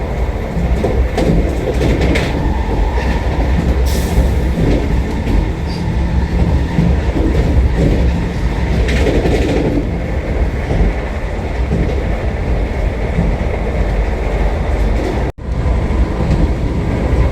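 Vande Bharat electric express train running at speed, heard from inside the coach: a steady low rumble with occasional faint clicks from the wheels and rails. The sound drops out for an instant about fifteen seconds in.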